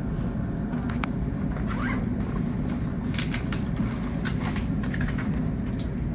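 Steady low rumble of an NJ Transit commuter train rolling along, heard from inside a passenger car, with short sharp clicks and squeaks from the wheels, track and car body scattered through it.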